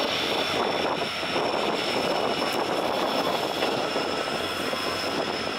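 Steady running noise of a diesel-hauled passenger train, heard from a coach as it rounds a curve: wheels rumbling on the rails under the drone of the locomotives, with a thin, steady, high-pitched whine over it.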